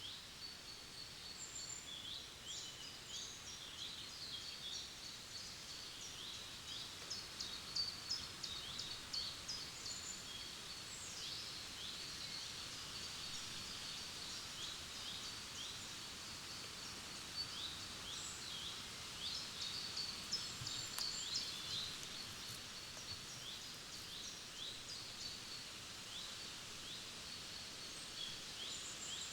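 Several small forest birds singing, with rapid, repeated high chirps that fall in pitch, over a faint steady background hiss.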